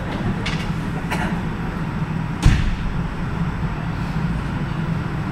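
Steady low mechanical rumble, with a couple of faint clicks early and one sharp, loud thump about two and a half seconds in.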